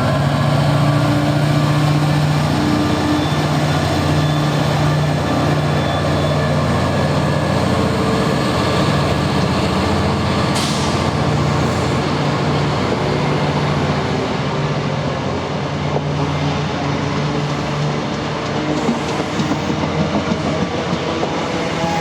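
Diesel-hauled passenger train running on the rails, the locomotive's engine drone strong in the first half, then giving way to rolling wheel noise from the coaches. There is a short hiss about halfway through.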